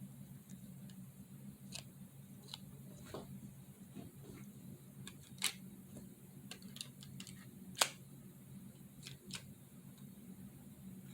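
Plastic Lego pieces of a toy gun model clicking and snapping as it is handled, in irregular small clicks with two louder snaps, one about halfway through and one about two-thirds through, over a steady low hum.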